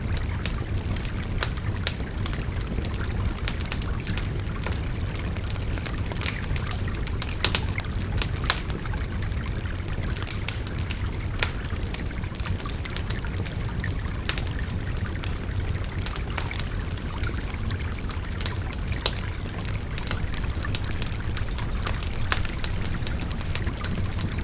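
Wood bonfire crackling with irregular sharp pops, over the steady rush of a babbling river; a couple of louder pops stand out, about a third of the way in and again past the middle.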